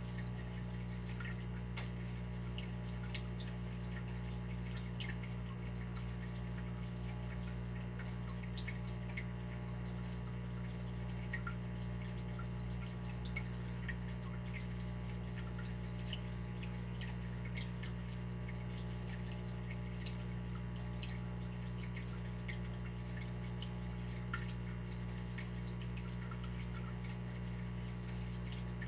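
Water dripping and trickling: many small, scattered drips and plinks over a steady low hum.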